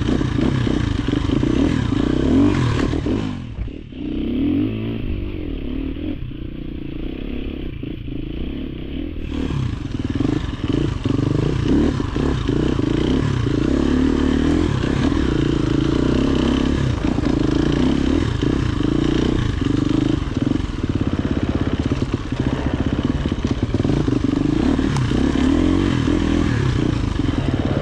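Off-road dirt bike engine running under way on a trail, with scattered knocks and clatter. About four seconds in the sound briefly drops and turns dull for about five seconds before coming back full.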